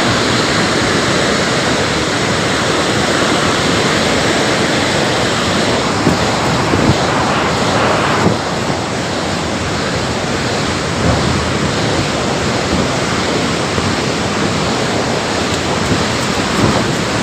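Floodwater rushing down a swollen river: a loud, steady rush of water with no break.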